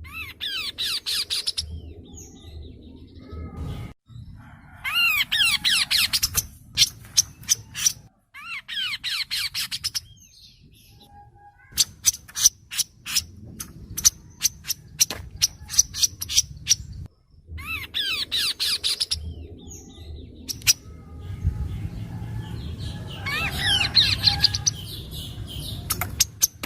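Kaso-kaso bird singing: about five bursts, each a couple of seconds long, of quick sliding whistled notes, with runs of sharp dry clicks between them and a low rumble beneath.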